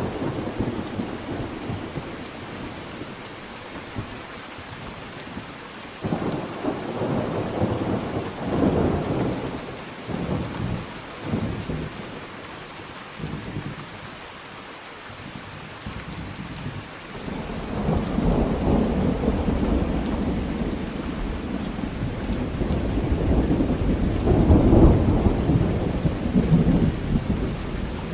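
Steady rain falling through a thunderstorm, with thunder rumbling in low rolls about a quarter of the way in and again in a longer roll through the second half, loudest near the end.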